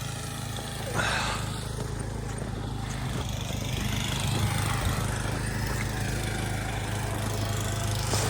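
Gas-engine snow blower running steadily.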